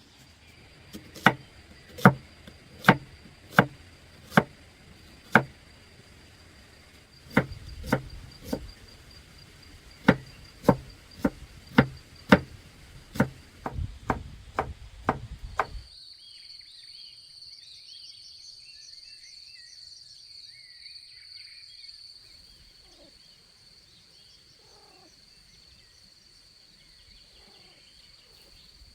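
A run of sharp, regular chopping knocks, a little over one a second, then a faster run that stops abruptly about halfway through. Afterwards short chirps and a steady high insect buzz remain.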